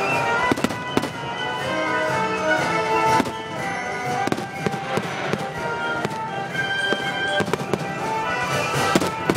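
Fireworks finale: aerial shells bursting with irregular sharp bangs over a symphony orchestra playing sustained notes.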